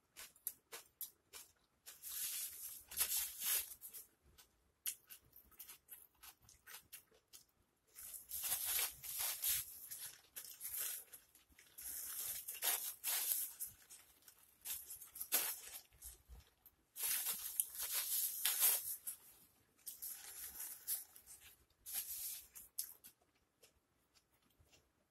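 Close-miked eating sounds: wet chewing and lip-smacking on a mouthful of pulled pork, in bursts of one to two seconds with small mouth clicks between.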